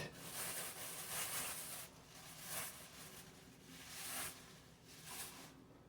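Faint rustling and handling noises, a few soft swells about a second apart.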